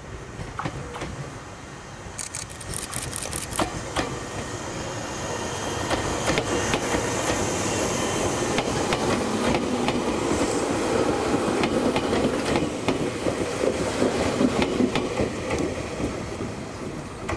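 Izukyu 8000 series electric train, a former Tokyu 8000 series set, running past: sharp clicks from the wheels, then a rolling rumble that grows louder about six seconds in and stays loud, clicking on, as the cars go by.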